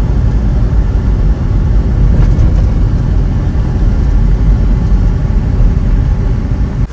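ATV engine running while under way: a loud, steady low rumble that cuts in and stops abruptly.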